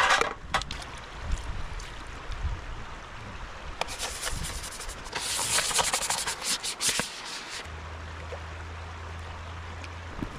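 Dishes being scrubbed and rinsed in a river: rubbing and scraping over running water, loudest in a stretch of scrubbing from about four to seven seconds in, with a few sharp clicks of dishware. A low steady hum comes in near the end.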